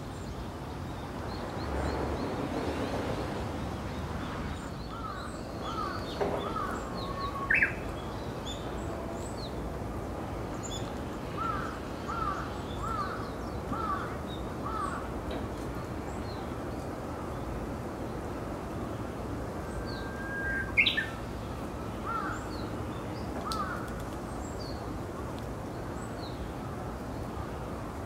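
Wild birds calling: several runs of short repeated chirps, with two sharper, louder calls about eight and twenty-one seconds in, over steady background noise.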